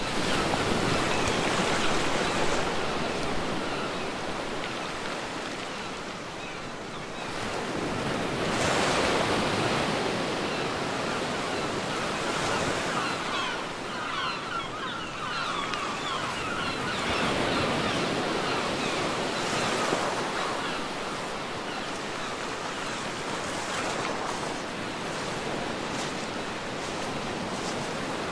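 Sea waves breaking on a beach, the surf swelling and falling back every few seconds with a continuous wash between.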